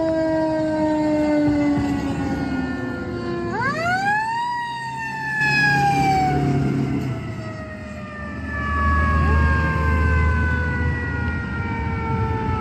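Fire truck siren wailing. The falling tone winds quickly up about three and a half seconds in, then slides slowly back down, with a shorter rise near the end. The truck's engine rumbles underneath in the second half.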